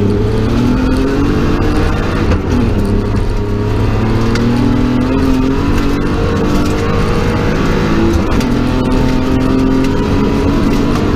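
BMW 325's straight-six rally engine, heard from inside the cabin, accelerating hard on a gravel stage: the engine note climbs through the revs and drops sharply at two upshifts, about two seconds in and near the end.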